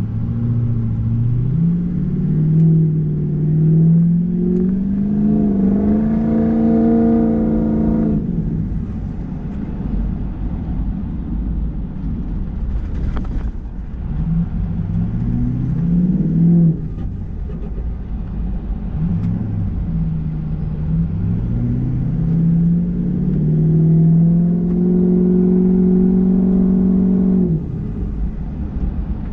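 Ford 6.0 Power Stroke V8 turbodiesel pulling under throttle in about four surges, its pitch rising through each and dropping off abruptly when the throttle is lifted.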